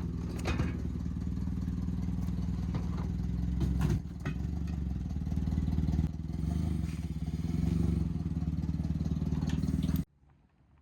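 An engine running steadily with a rapid pulsing note, its level shifting about four and again six seconds in, then cutting off abruptly near the end.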